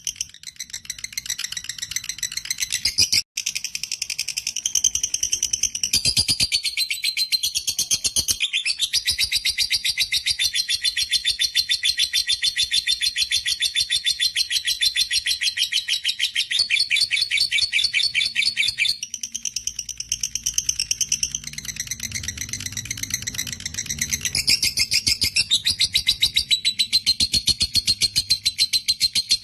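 Lovebird doing a long 'ngekek': a rapid, shrill chattering trill of fast repeated notes that runs almost without pause, with brief breaks about three seconds in and again near the eighth second. This long-running ngekek is the call that hobbyists prize in a 'fighter' lovebird.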